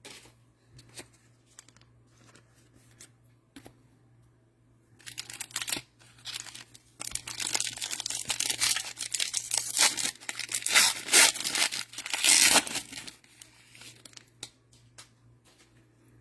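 A cellophane-wrapped trading card pack being torn open and the wrapper crinkled. A few light clicks come first, then about eight seconds of crackling tearing and crumpling.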